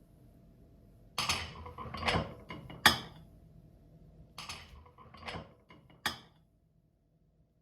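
Kitchen handling noises: two bursts of clattering and knocking from utensils or cookware being moved, each ending in a sharp click.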